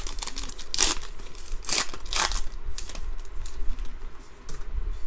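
Trading cards being handled and slid across one another as they are flipped through, a string of short papery swishes and rustles.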